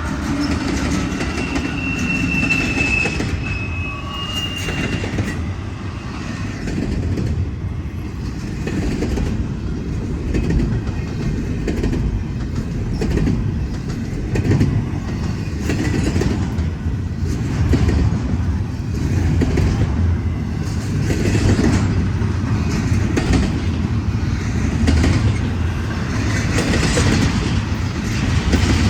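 Union Pacific intermodal freight train rolling past, a steady low rumble of cars and wheels with irregular clacking over the rail joints. A thin, high wheel squeal sounds for the first few seconds.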